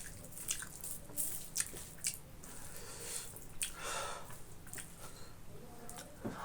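Close-miked chewing of food, with wet smacking and squishing mouth sounds and frequent short clicks.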